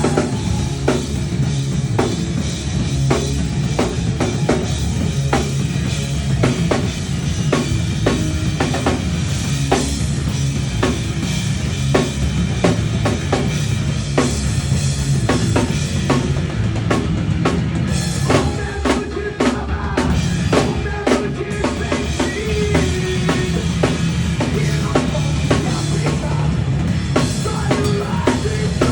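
Drum kit playing a steady rock-style beat of kick drum, snare and cymbals along with a song, with bass and other instruments of the track underneath.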